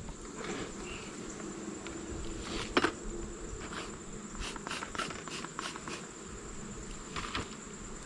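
Honeybees humming around an opened hive, with a steady high insect trill behind it and a series of sharp clicks and knocks, the loudest about three seconds in and several more in quick succession in the middle.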